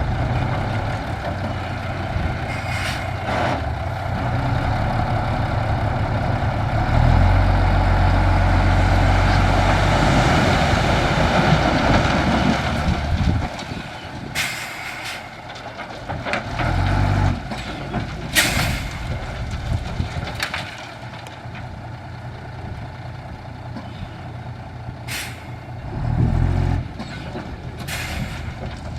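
Heavy dump truck's diesel engine running, revving hard for about six seconds partway through, then dropping back to a quieter run. Several brief sharp sounds come in the second half.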